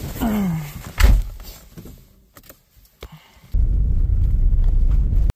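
A car door thunks shut, followed by a few small clicks. About three and a half seconds in, the car's steady low rumble starts and keeps going.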